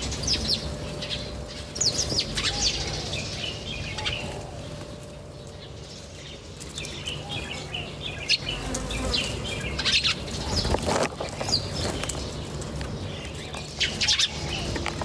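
Several small birds chirping in short, quick calls, with bursts of wing flapping among them. A low steady hum runs underneath.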